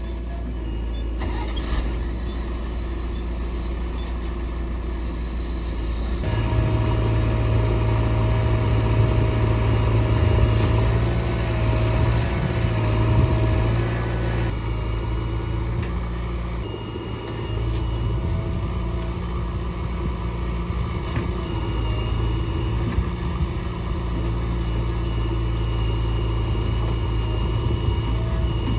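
Heavy diesel engine of earth-moving machinery running steadily, louder for a stretch from about six to fourteen seconds in.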